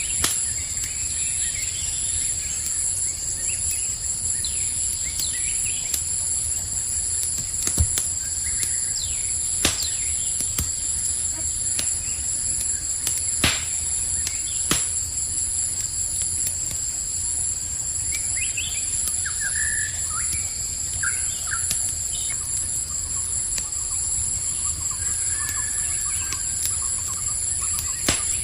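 Campfire crackling with several sharp pops, the loudest about 8, 10 and 13 seconds in, over steady high cricket trilling. A few short chirps come and go near the start and again in the second half.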